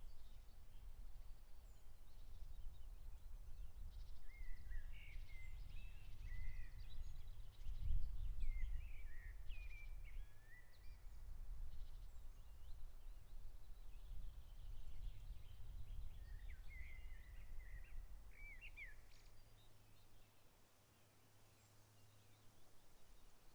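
Songbirds singing short, twittering phrases in scattered bursts over a low, uneven rumble that swells about eight seconds in and dies away near the end.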